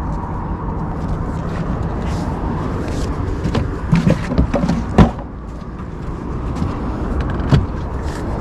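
Boat outboard motor running steadily, with a loud thump about five seconds in and a few lighter knocks around it. The engine revs with power but barely drives the boat, which the owner puts down to a damaged propeller or gearbox.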